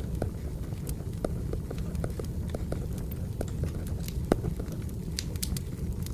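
Wood fire crackling: a steady low rumble with irregular sharp pops and snaps, one louder pop about four seconds in.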